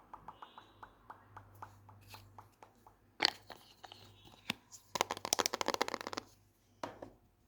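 Fast ASMR tapping: a quick, even run of light taps that thins out, a single sharp tap about three seconds in, then a louder, rapid flurry of taps lasting about a second, and one last tap near the end.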